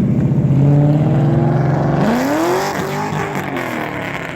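A car engine held at steady revs, then revved up sharply about two seconds in and falling back.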